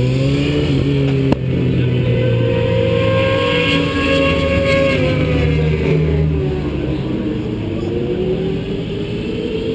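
Onboard sound of a vehicle's engine at speed on a race track, with road and wind noise. Its pitch rises under acceleration, falls for a couple of seconds as it slows, then climbs again. A sharp click comes just over a second in.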